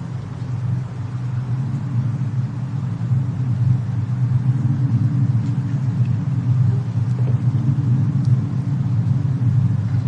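Steady low rumble of fire and storm wind under a soft hiss, with a few faint crackles from the fireplace. It swells up over the first second or so, then holds even.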